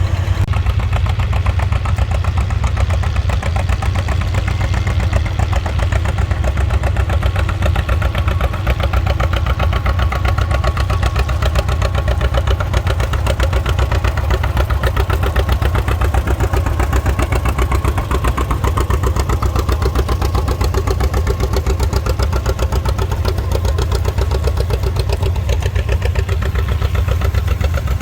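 Tractor engine running steadily under a fast, even firing beat.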